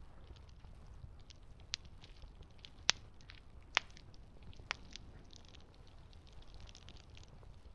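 Campfire burning, with a low rumble and a steady scatter of small crackles. Four sharper pops of the wood stand out between about one and a half and five seconds in, the loudest about three seconds in.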